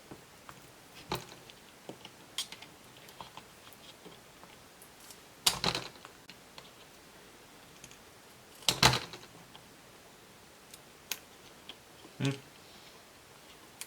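Light plastic clicks and taps as a laptop's small plastic hinge cover is worked at and pried off with a tool, with a few louder clusters of clicking along the way.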